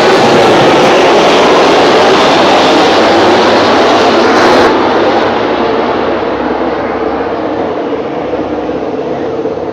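Loud, steady noise of a vehicle in motion. About halfway through the sound changes abruptly and grows quieter, then fades out at the end.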